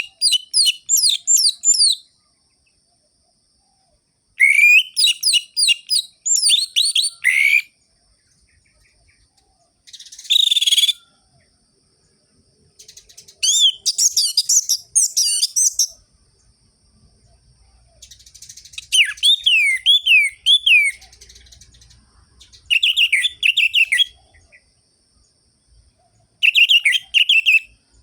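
Orange-headed thrush in full song: about seven loud phrases of rapid, sliding whistled notes, each lasting one to three seconds with pauses between, and one short harsh burst about ten seconds in.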